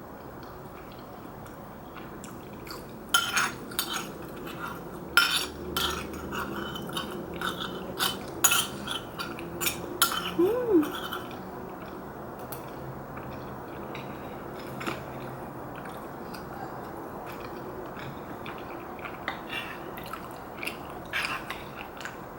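Utensils clinking against a bowl of soup while eating: a run of sharp clicks that is busiest in the first half, then a few scattered clicks.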